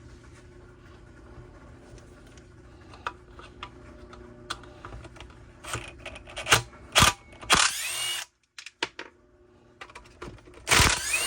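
Workbench handling of small-engine parts and tools: faint light clicks over a steady low hum, then a few sharp knocks and two short rasping bursts, with the sound cutting out abruptly in between.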